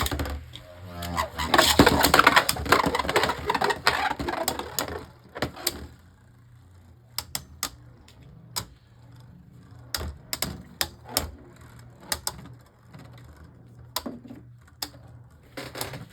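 Two Beyblade Burst spinning tops launched into a plastic stadium. For the first five seconds or so they whir and grind loudly as they clash, then scattered sharp clicks follow as they knock against each other and the stadium wall.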